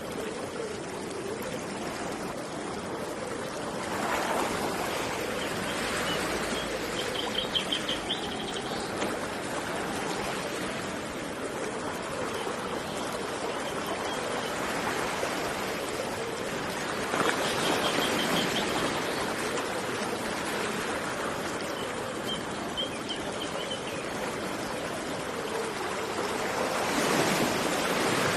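Steady rush of running river water that swells louder three times, with a small bird's short high trill repeating every few seconds.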